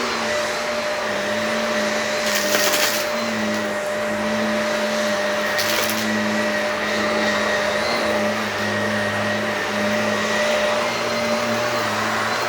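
Shark Professional vacuum cleaner running steadily on carpet, a constant motor hum and suction hiss, with two brief louder hisses about two and six seconds in.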